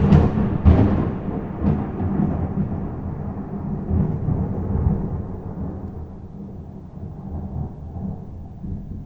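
Dry thunder with no rain heard: a loud peal with sharp cracks in the first second, then a long rumble that slowly dies away.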